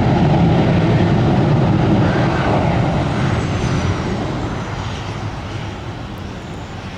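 Jet airliner passing close by, its engine rumble loud at first and slowly fading away, with a faint falling whine.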